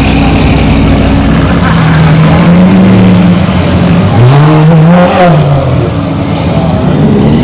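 Car engine running loud, revving up about four seconds in and falling back.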